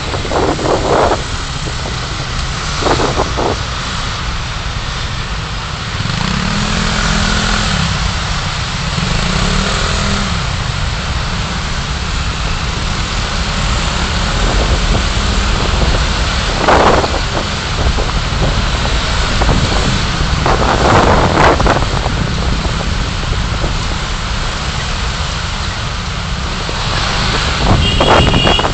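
Road traffic noise from a car driving through city streets: a steady rush of tyre and wind noise. A vehicle engine hum rises and falls about a quarter of the way in, and a few short louder swells come later, like vehicles passing.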